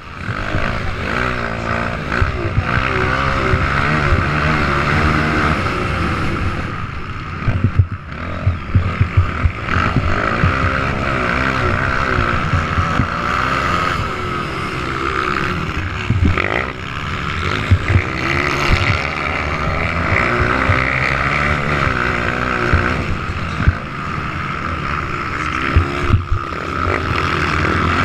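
Several motocross bike engines running on the track, revving up and falling off again as the riders work the throttle. There are a few sharp thumps about eight seconds in and again later.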